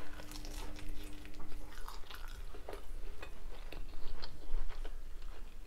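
Chewing a mouthful of battered cod bite, with many small crunches and mouth clicks.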